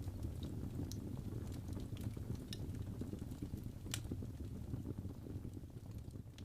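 Fire burning in a fireplace, crackling: a steady low rumble of flame with scattered sharp pops, one louder pop about four seconds in.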